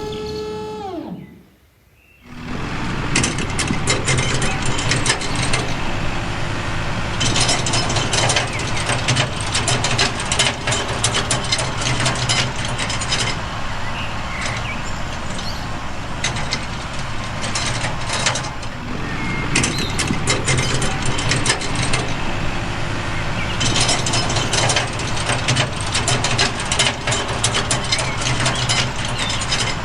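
Homemade mini tractor running steadily with stretches of dense mechanical rattling, starting about two seconds in after a falling gliding tone and a brief gap.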